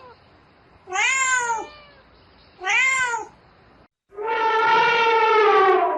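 A cat meowing twice, each meow rising and then falling in pitch. About four seconds in it is followed by a longer, steadier animal call of about two seconds.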